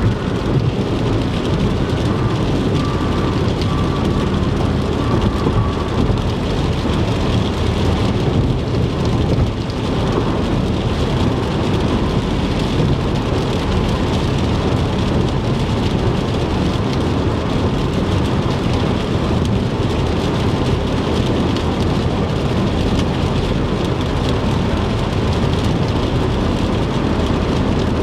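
Heavy rain falling on a moving car, heard from inside the cabin, with steady tyre noise on the wet interstate and a low road rumble underneath.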